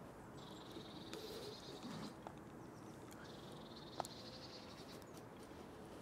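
A songbird singing a short, buzzy trill twice, each about a second long and about three seconds apart, faint under light handling clicks.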